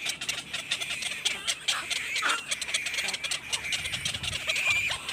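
Animal calls: rapid clicks and chirps over a steady high note, with a downward squeal about two seconds in.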